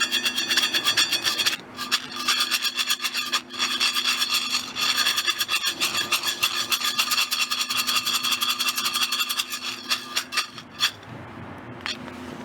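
Hand coffee mill grinding roasted coffee beans: a fast, continuous rasping crunch that stops abruptly near the end.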